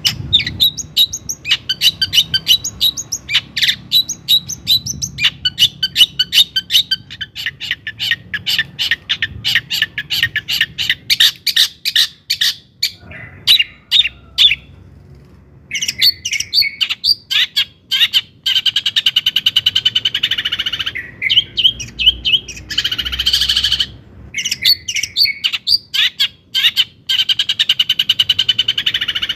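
Long-tailed shrike (cendet) singing a fast, chattering song of sharp repeated notes, with a short pause about halfway and a brief harsh buzz about four-fifths of the way through.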